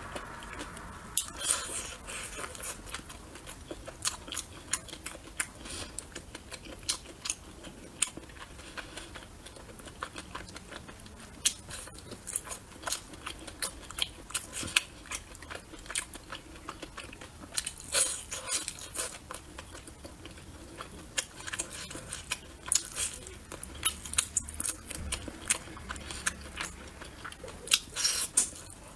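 Close-miked chewing and biting of braised chicken drumstick meat: many short smacking clicks, bunched in clusters near the start, past the middle and near the end.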